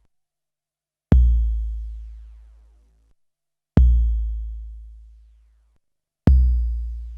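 SP1200 sampler playing a deep, long-decaying kick drum sample, struck three times about two and a half seconds apart, each boom fading away over about two seconds.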